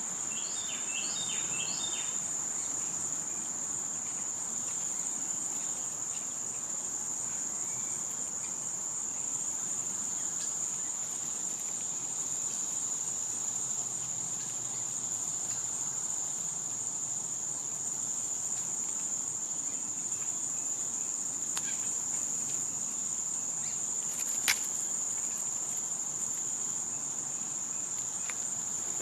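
Steady, continuous high-pitched drone of summer cicadas. A few short bird chirps come about a second in, and there is one sharp click late on.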